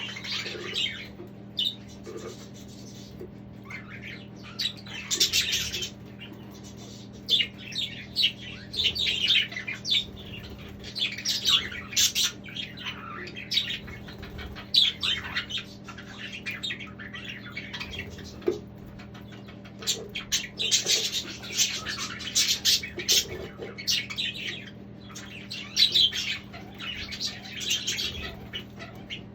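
Budgerigars chattering and squawking, many short calls overlapping in irregular bursts, over a steady low hum.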